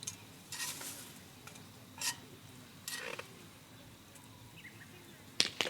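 Cooking utensils clinking and scraping against cookware a handful of times over a faint, steady sizzling hiss, as food is stirred and served.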